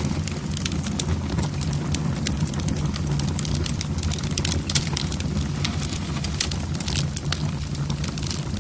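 Wood fire burning in a fireplace, its logs crackling with many sharp irregular pops over a steady low rumble of the flames.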